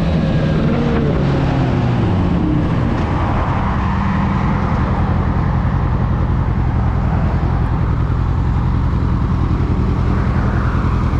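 Suzuki GSX650F sport-touring motorcycle's inline-four engine running on the road, with wind rushing over the microphone. The engine pitch falls over the first few seconds as the bike slows or shifts, then holds steady.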